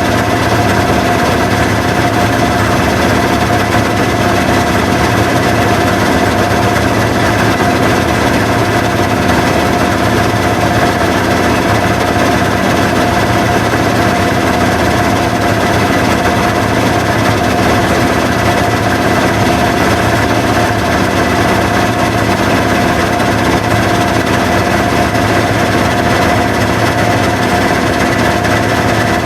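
Washing machine running steadily, a constant mechanical noise with an unchanging motor whine.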